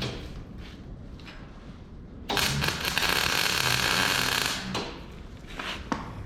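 Electric arc welding on steel: a crackling, sizzling arc that strikes suddenly about two seconds in, runs for about two and a half seconds and cuts off. It is laying a short tack weld.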